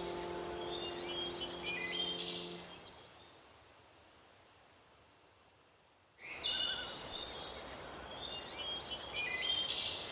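Songbirds chirping in quick, varied phrases over the last held notes of soft background music; everything fades to near silence about three seconds in, and the birdsong cuts back in abruptly about six seconds in.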